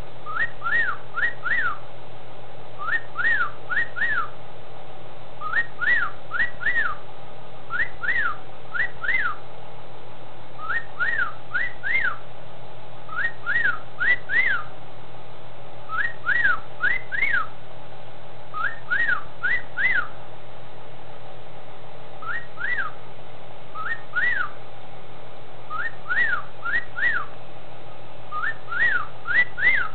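Male cockatiel whistling a wolf-whistle phrase over and over: quick groups of about three rising-and-falling whistle notes, repeated every two to three seconds over a steady low hum.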